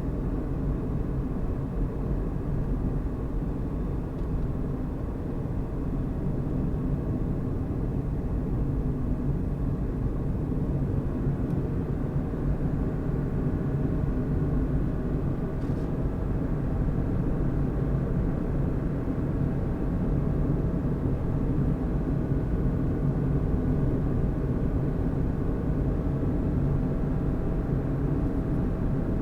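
Car driving at a steady speed: continuous low engine and road rumble, with a faint steady hum that comes through more clearly in the second half.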